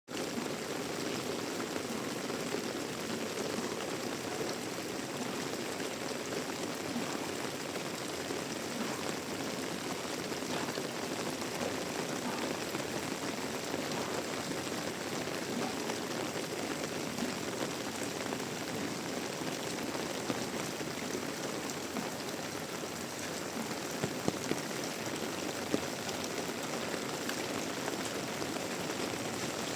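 Heavy rain falling steadily, an even hiss of drops on surfaces. A few sharp drip-like taps stand out briefly about two-thirds of the way in.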